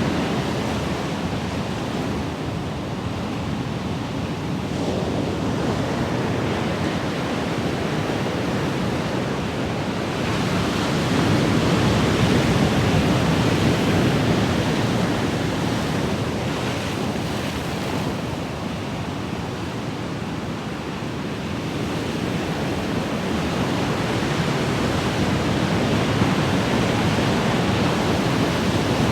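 Ocean surf in a continuous rushing wash that slowly swells and ebbs. It grows louder about a third of the way in and again near the end.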